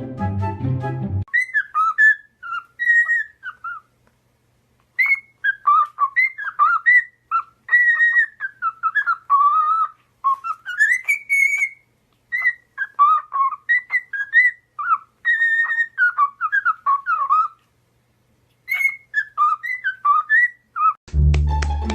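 Parrot whistling a tune: many short, pitch-gliding notes strung into phrases, with a couple of brief pauses. Background music plays for about the first second and comes back near the end.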